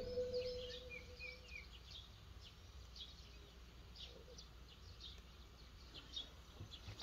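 Faint ambience with small birds chirping in short, scattered calls, as music fades out in the first second or so.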